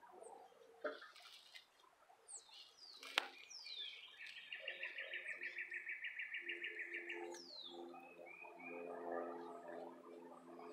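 Background birds chirping and calling: several quick falling whistles, and a rapid even trill of about seven notes a second lasting nearly three seconds. A single sharp click comes about three seconds in, and low held calls set in near the end.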